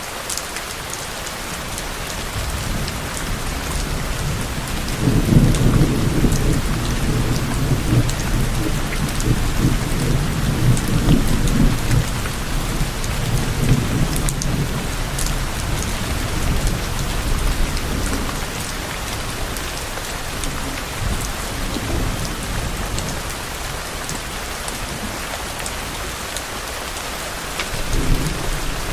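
Steady rain falling, with a long low roll of distant thunder that swells in about five seconds in and fades away over the next ten or so seconds; a shorter low rumble comes near the end.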